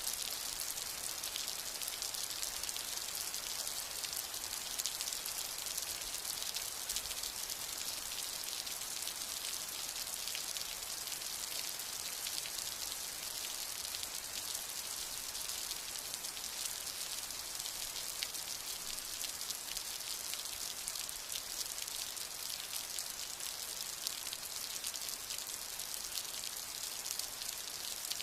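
Steady rain falling, a dense even patter of many fine drops with a bright hiss. No thunder is heard.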